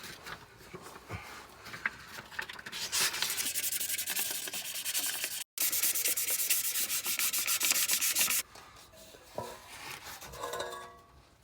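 Rough, fast rasping and scraping of hand work on a truck's exhaust pipe, loudest in a stretch of several seconds in the middle that stops abruptly.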